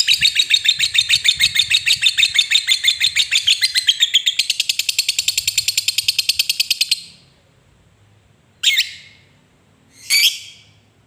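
Lovebird giving its long 'ngekek' chatter: a shrill run of rapid repeated notes, about eight a second, that quickens about four seconds in and stops after about seven seconds. Two short sharp calls follow.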